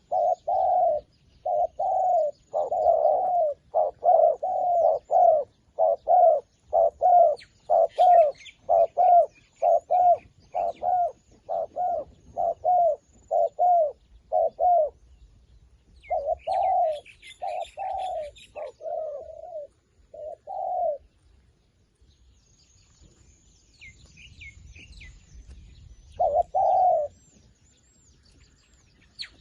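Zebra dove cooing: a long series of short, curving coo notes, about two a second for some fifteen seconds, then a few more in a looser run and one last note near the end. Faint high chirps of small birds sound in the background.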